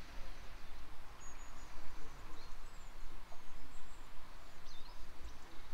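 Outdoor ambience: a steady background hiss and low rumble, with faint high bird chirps and short whistles scattered through.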